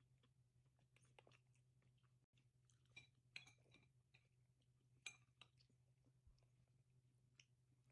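Faint mouth sounds of a toddler chewing finger food: a few small wet smacks and clicks, clustered about a second in, around three seconds in and around five seconds in, over a steady low room hum.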